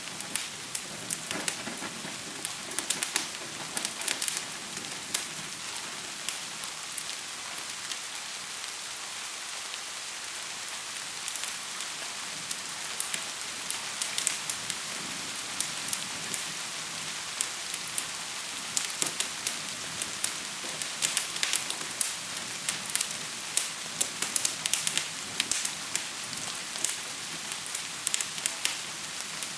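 Steady hiss of gentle rain overlaid with the sharp crackles and pops of a burning wood fire, coming in clusters with a sparser stretch in the first half.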